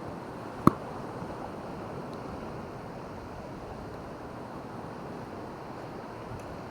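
Steady wash of waves on a beach, with one sharp click just under a second in.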